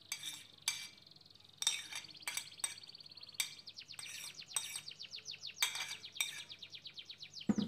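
A small songbird singing: scattered sharp, high chirps, then from about halfway a fast, high trill of rapidly repeated notes.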